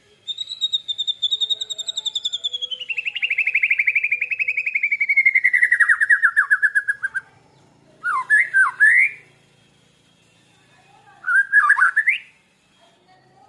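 White-rumped shama and lovebird singing. A rapid trill lasts about seven seconds, slowly falling in pitch, then two short sweeping warbled phrases follow about a second and four seconds later.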